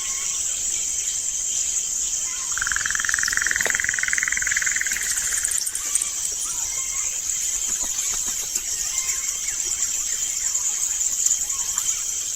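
Steady chorus of insects, such as crickets, with a pulsing trill joining in from about two and a half to five and a half seconds in.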